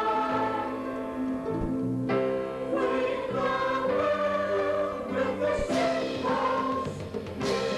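Youth choir singing with accompaniment, holding long notes.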